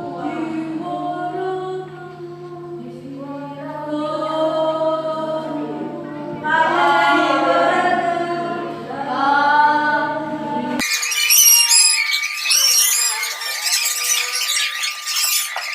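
A choir singing a slow song in parts. About eleven seconds in the singing cuts off abruptly and gives way to a different, hissy high-pitched sound.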